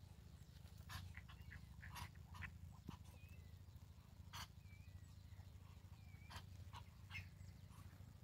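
Near silence, with faint, scattered short chirps and peeps from birds.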